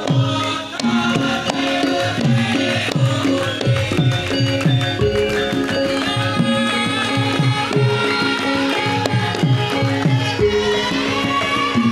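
Javanese gamelan music accompanying lengger dance. The kendang hand drum plays quick strokes that drop in pitch, several a second, over held pitched notes from the ensemble.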